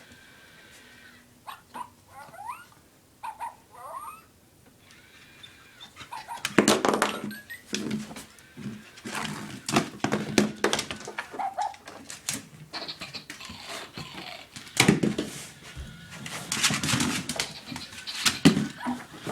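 A tiny noise-making toy zooming around the floor while a wheaten terrier mix puppy chases and pounces on it: a steady tone at the start and again near the end, a few short rising whines about two to four seconds in, then scuffling, clattering and thumps from about six seconds on.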